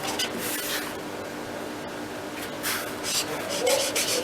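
Handwriting: a few short scratching strokes as the given values are written down, over a faint steady hum.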